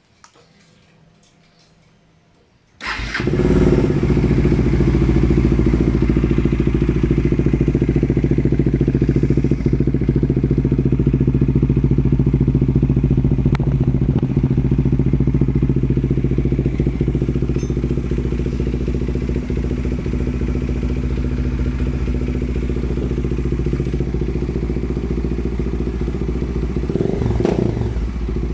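Bajaj Dominar's single-cylinder engine starting about three seconds in and then idling steadily through an aftermarket Yoshimura slip-on exhaust.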